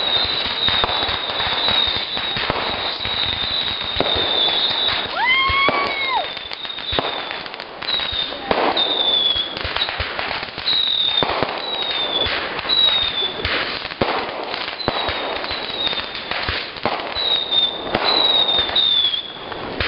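Fireworks going off in a rapid, continuous crackling barrage, with short high whistles that dip slightly in pitch recurring throughout and one lower whistle rising and falling about six seconds in.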